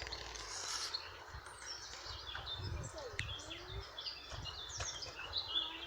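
Wild birds singing and chirping, many short high calls overlapping, with irregular low rumbles underneath.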